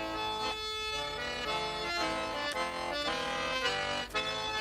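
Garmon, the Russian button accordion, playing an instrumental passage of changing chords between sung verses of a song.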